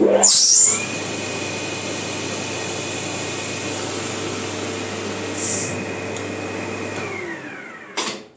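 Emco Maximat metal lathe running at speed with a steady gear whine, then winding down quickly about seven seconds in as the bicycle disc brake fitted to its spindle brakes it. A short clatter comes near the end.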